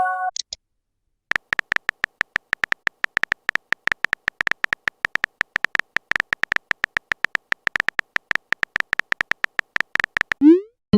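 Typing sound effect for a chat message: quick, irregular clicks, many per second, after a message chime fades at the start. Near the end a short rising swoosh marks the message being sent.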